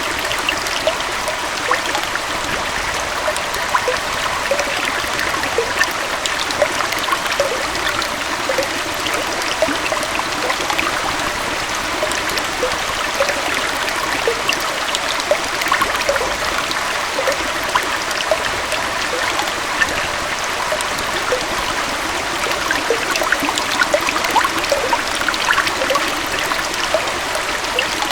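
Small forest waterfall and stream: water falling and flowing over rocks in a steady, even rush, with many small bubbling and splashing notes over it.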